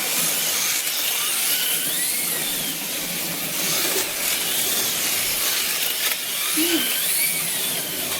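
Several plastic-chassis slot cars racing on a wood routed track, their small electric motors whining up and down in pitch as the cars speed along and slow, over a steady hiss. The whine swells and falls away several times, every couple of seconds.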